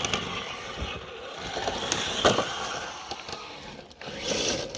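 Traxxas TRX-4 Sport RC crawler's electric motor and drivetrain whirring as it crawls, with a sharp knock about two seconds in.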